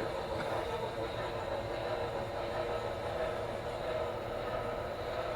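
HO scale Norfolk and Western Y6B model steam locomotive, sound-equipped, running steadily at half throttle: the even running sound from its onboard speaker and drive.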